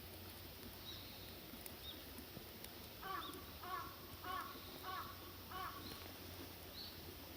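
A crow cawing five times in quick succession, a little under two calls a second, with a few faint high chirps from small birds around it.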